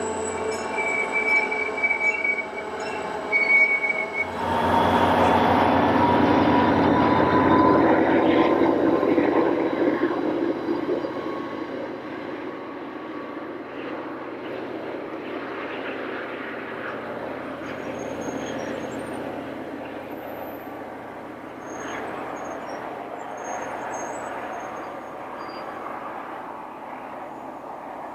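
NJ Transit commuter train running on the main line, its wheels giving short high squeals on the curve in the first few seconds. About four seconds in the sound jumps to a louder train rumble that swells and then slowly eases off.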